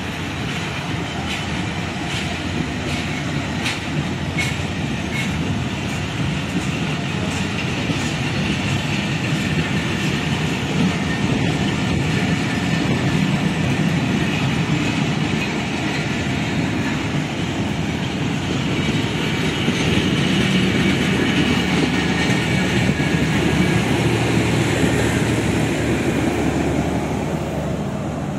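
Passenger train coaches rolling past on the rails in a steady, loud rumble. Wheels clack over the rail joints in the first several seconds. The sound falls away at the end as the last coach goes by.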